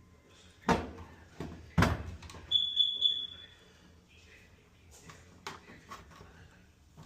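Metal dryer panels and parts clattering as they are handled during disassembly: two sharp knocks about a second apart, followed by a brief high-pitched squeal and lighter clicks.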